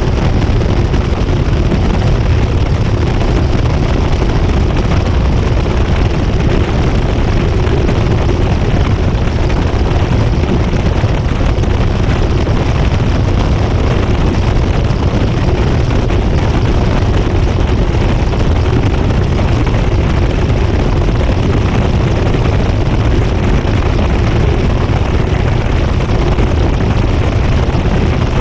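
GE GTW220ACKWW top-loading washing machine in its high-speed spin, heard from inside the tub on the agitator: a loud, steady rumble and rush of air with a faint steady hum.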